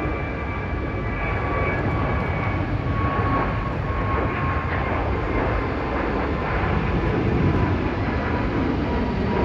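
Jet airliner engines running: a steady roar with a high whine that slowly falls in pitch.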